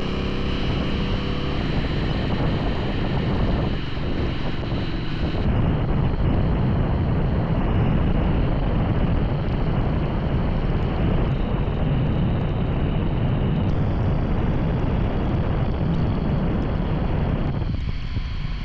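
Motorcycle riding at speed: a steady rush of wind over the microphone, with the engine running underneath.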